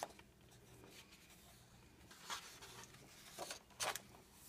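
Faint paper rustling: a few soft, brief brushes of hands on the pages of a heavyweight-paper coloring book, mostly in the second half.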